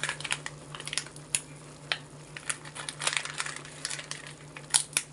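Irregular crinkling and crackling from handling dry bay leaves as they are added to the pot, with a denser cluster of sharp crackles near the end, over a steady low hum.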